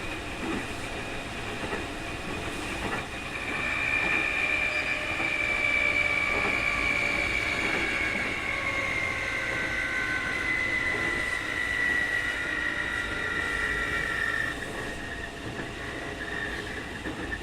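Keikyu 2000 series electric train (Mitsubishi field-chopper control) running, heard from inside the car: under the rumble of the wheels on the rails a high whistling whine, the so-called 'jet sound' of this abnormal-noise car, comes up a few seconds in, slowly falls in pitch and cuts off suddenly near the end.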